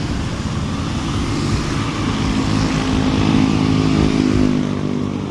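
Honda RS125 FI's small single-cylinder engine running under way, its note growing louder through the middle, with wind buffeting the helmet-mounted earphone microphone.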